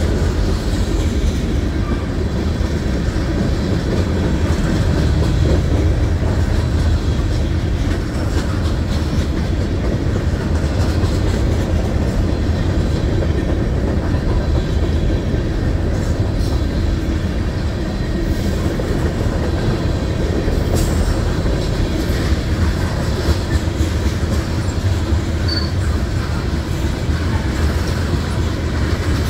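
Freight train cars rolling past close by: a loud, steady rumble of steel wheels on rail as tank cars and covered hoppers go by.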